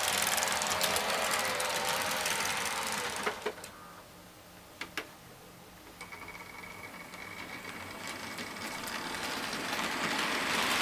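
H0-scale model train running on the layout: a small electric motor's whine with wheel-on-rail noise, dropping away about three and a half seconds in, a few sharp clicks, then building again toward the end as a train comes closer.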